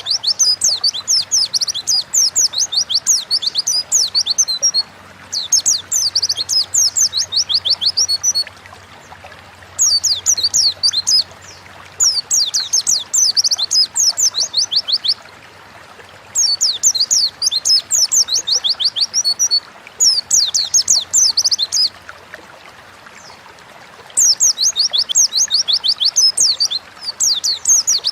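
Pleci (white-eye) singing a fast, high twittering song in repeated bursts of a few seconds each, separated by short pauses.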